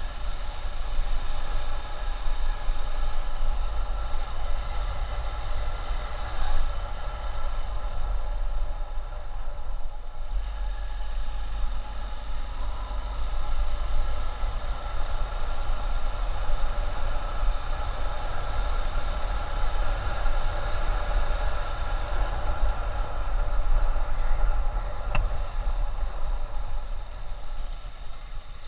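A motorcycle on the move, its engine running at a steady cruising speed, with heavy wind buffeting the microphone.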